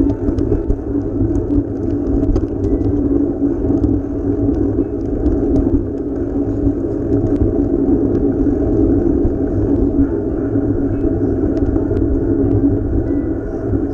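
Steady rumble of wind and road noise picked up while riding a bike, with scattered small clicks and rattles.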